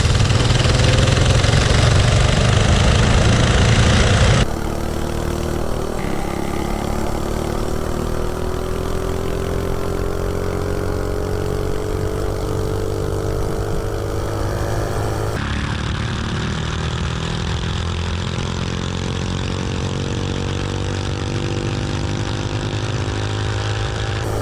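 79cc LCT snowblower engine on a Coleman CC100X mini bike running under load while riding, its pitch rising steadily through the middle as the bike speeds up; the engine is running on J-B Weld in place of a head gasket. The sound changes abruptly twice where the footage is cut.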